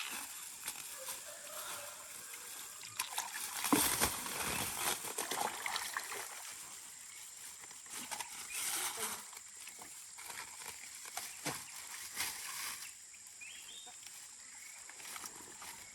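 Water splashing and sloshing in irregular bursts, with knocks and clatter, as live fish are handled in water; the loudest burst comes about four seconds in.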